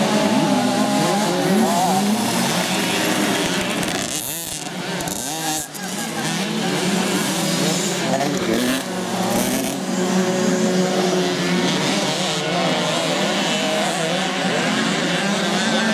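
Several youth motocross bikes racing, their engines revving up and down at overlapping pitches, with a short lull about four to six seconds in.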